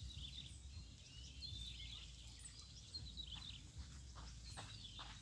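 Faint outdoor ambience of several small birds chirping and trilling, with a steady low rumble underneath.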